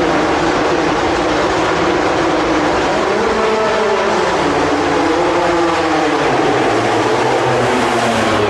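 Motorcycle engines revving during a timed sprint run, their pitch rising and falling several times in the middle, over a dense steady din.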